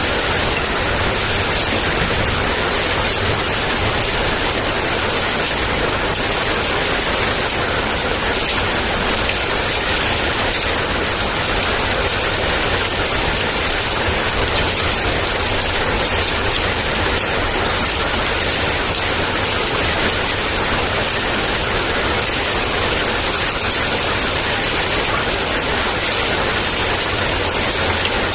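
Heavy downpour of rain, a dense, steady patter with no breaks and no thunder.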